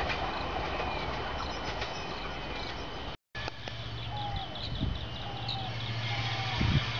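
Passenger train running, heard from aboard: a steady noise of wheels on track. After a sudden cut, a low steady hum with birds chirping rapidly and giving short falling whistles, and a couple of soft thumps.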